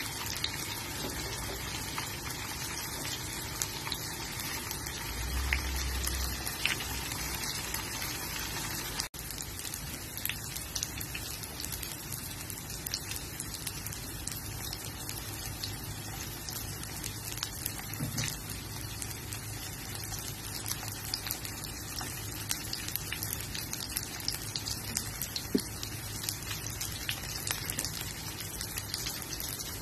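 Tofu cubes sizzling in hot oil in a nonstick frying pan: a steady hiss dotted with many small crackles and pops, with a brief break about nine seconds in.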